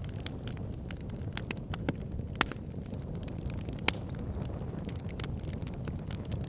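Wood fire burning in a fireplace: a steady low rumble of flames with irregular sharp crackles and pops from the logs, two of them louder, a little past two seconds in and near four seconds in.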